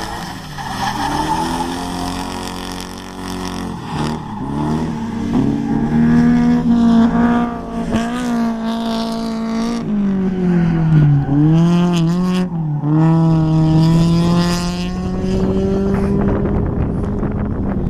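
Car engine held at high revs while drifting, its pitch dipping and climbing back several times as the throttle is lifted and reapplied, with tyre squeal beneath.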